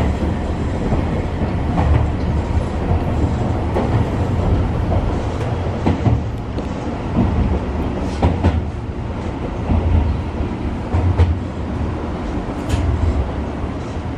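Electric commuter train running through a station, heard from behind the driver's cab: a steady rumble of wheels on rail, with irregular sharp clicks as the wheels cross rail joints and points.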